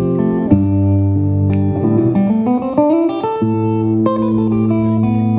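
Guitar playing held, ringing chords, with a rising run of notes about two to three seconds in, played live by a small rock band.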